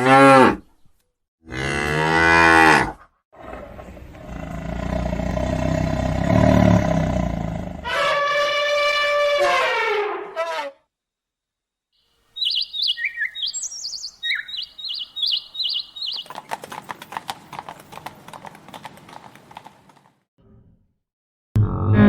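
Cattle mooing: several long, pitched moos, some falling in pitch at the end. After a short silence come a series of short high-pitched chirps, then a stretch of crackly noise.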